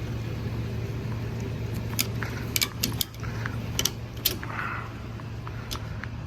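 Engine idling with a steady low hum, with a cluster of sharp metallic clinks and jingles about two to four and a half seconds in.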